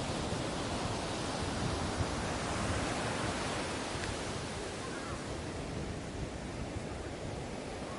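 Ocean waves breaking and washing on a beach, a steady rushing surf that swells a couple of seconds in and eases slightly towards the end.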